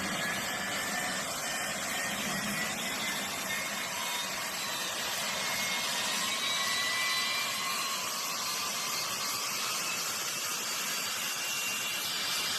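Jet engine of a jet-powered vehicle running steadily: a broad rushing noise with faint high whines that slowly rise in pitch.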